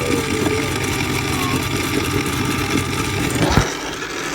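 A small motor running with a steady hum, with a knock about three and a half seconds in and a louder knock at the very end as the hum cuts off.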